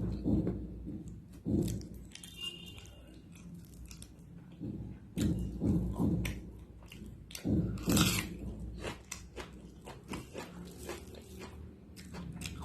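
A person chewing and biting food close to the microphone, with bunches of louder bites and mouth clicks between stretches of quieter chewing.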